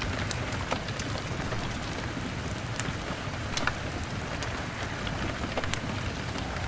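Rain falling steadily on a window, mixed with a crackling fire that gives scattered sharp pops over the even hiss of the rain.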